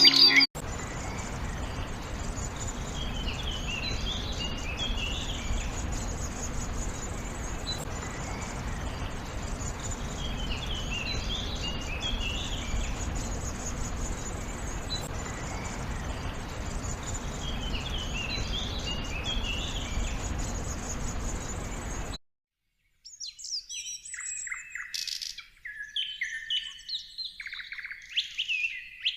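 Songbirds singing: a short phrase of high notes repeated about every seven seconds over a steady background hiss and rumble, then, after a brief cut to silence near the end, a different bird singing a quick, busy run of clear chirps and trills.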